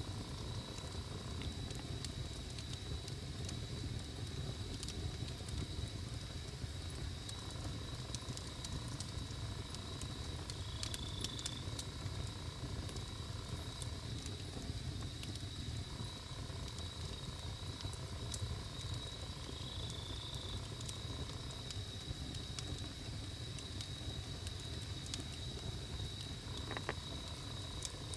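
Wood campfire burning, with scattered sharp crackles and pops over a low steady rumble. A steady high-pitched tone runs underneath, with a fainter lower tone that comes and goes.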